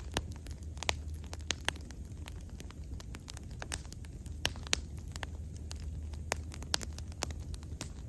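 Wood bonfire crackling, with irregular sharp pops, several of them louder, over a low steady rumble.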